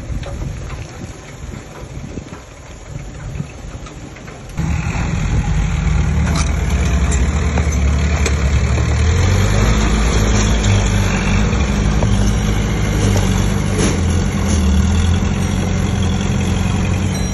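Heavy earthmoving machine's diesel engine running, quieter and uneven at first, then suddenly much louder and steady about four and a half seconds in.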